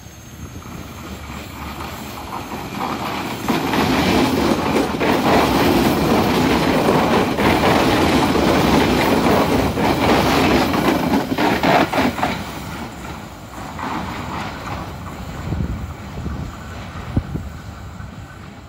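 A train passing by: it grows louder over the first few seconds, runs loud for about eight seconds with its wheels clattering over the rail joints, then fades away.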